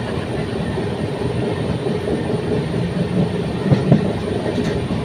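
Train running on the rails, a steady rumble of wheels on track with a couple of louder knocks a little before four seconds in.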